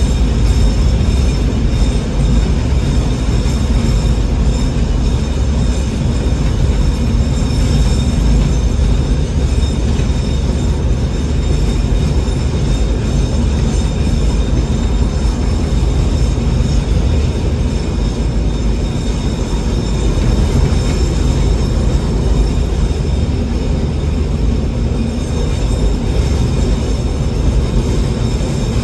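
Narrow-gauge Alishan Forest Railway train running steadily, heard from the cab: a continuous low rumble of the running gear and engine, with a steady high-pitched whine over it.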